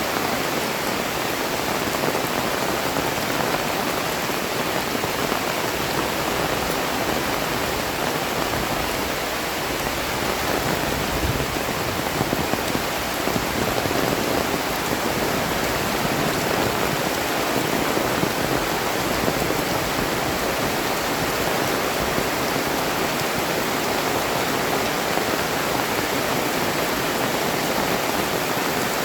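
Heavy tropical rain falling steadily, a dense, even hiss of rain.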